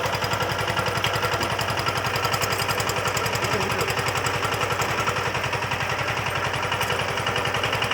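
Single-cylinder diesel engine of a VST Shakti 130 DI power tiller running steadily at low throttle with an even, rapid chug while the tiller moves slowly in first gear.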